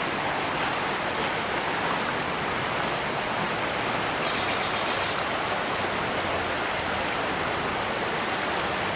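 Rain-swollen creek running fast and muddy, a steady rushing of water.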